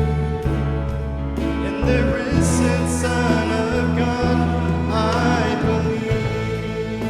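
Worship praise team playing a song, with long held bass notes under layered instruments and singing voices.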